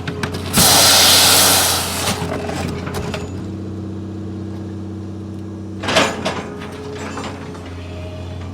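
A machine's engine running steadily, with a loud burst of hissing noise about half a second in that lasts about a second, and a sharp clank about six seconds in.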